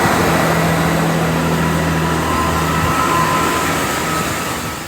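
A coupled pair of Class 165 and Class 166 Networker Turbo diesel multiple units running past on the line, with a steady engine hum and a whine over the rumble of the train. The noise fades away near the end as the train draws off.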